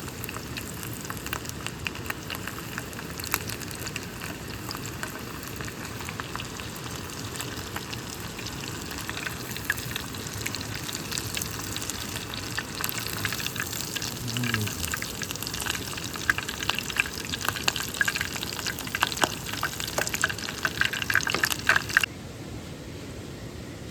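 Food sizzling and crackling in a hot pan, with the crackles growing busier towards the end before the sound cuts off abruptly.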